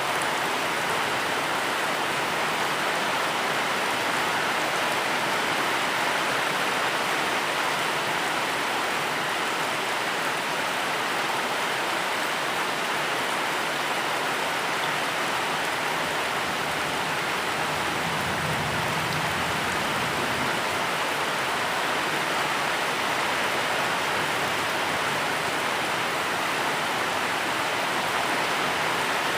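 Steady, even rainfall hissing on surfaces.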